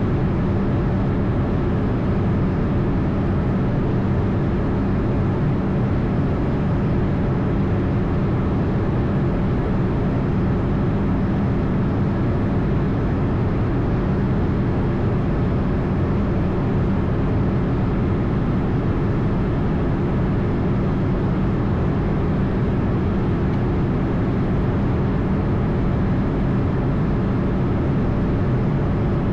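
Steady flight-deck noise of an Airbus A220 in flight: an even rush of airflow over the airframe with a constant hum from its geared turbofan engines, unchanging throughout.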